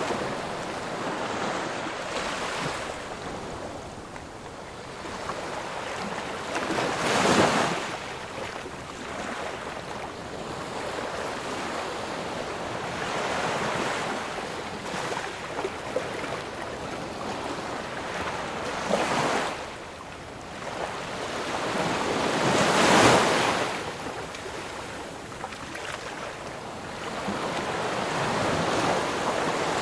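Ocean waves breaking and washing ashore, a continuous hiss of surf that swells and fades, with louder breakers crashing about 7 and 23 seconds in.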